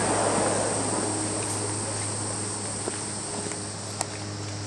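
Steady high-pitched chorus of rainforest insects, over a low steady hum. A sharp click about four seconds in.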